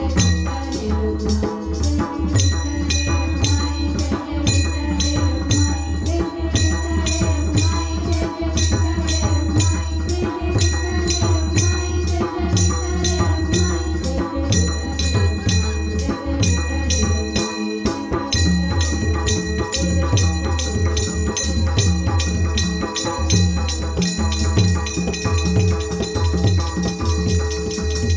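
Instrumental passage of Marathi bhajan music: fast, steady hand percussion with jingling, rattling strokes, over a sustained low tone.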